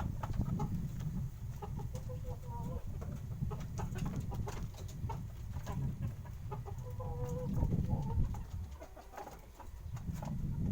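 Birds calling, like chickens clucking, with two short bursts of steady calls about two and seven seconds in. Under them are scattered small clicks and a low rumble.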